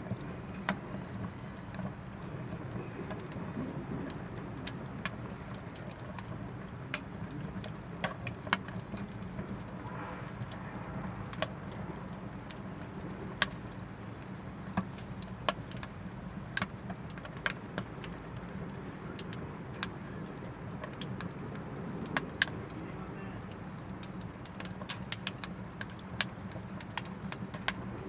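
Oak firewood burning in an Anevay Frontier Stove Plus, a portable steel tent wood stove: a steady low rumble of the flames with irregular sharp crackles and pops scattered throughout.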